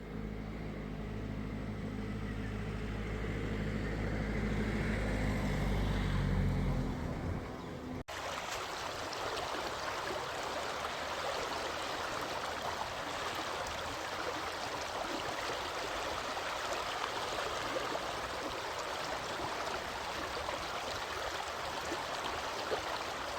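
A motor vehicle's engine drones low and steady for about eight seconds. It cuts off abruptly and is replaced by the even rushing of a flowing stream.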